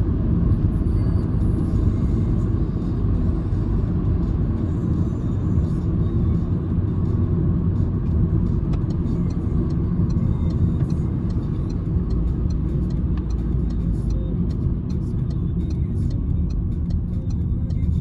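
Steady low rumble of engine and road noise inside the cabin of a Citroen C-Elysee with the 1.2 three-cylinder EB2 PureTech engine, driving at an even pace without revving up.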